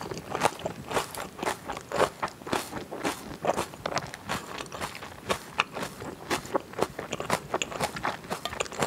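Close-miked chewing of thick raw salmon sashimi: an irregular run of short mouth clicks and smacks, several a second.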